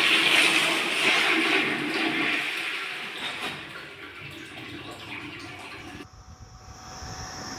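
Toilet flushing: a loud rush of water that fades over about four seconds into a quieter wash. About six seconds in, the sound changes abruptly.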